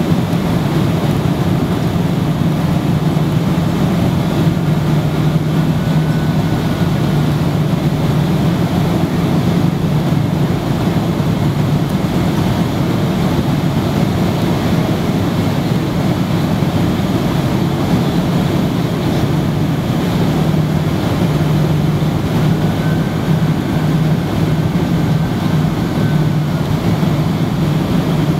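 Steady cabin noise of a Boeing 767-300ER in flight or on the runway: engine drone with a low hum and the rush of air, with two faint brief whines.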